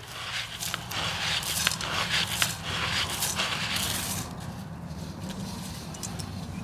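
Wheat grain being scraped and scooped: a rustling, crackling scrape with scattered clicks that eases off about four seconds in.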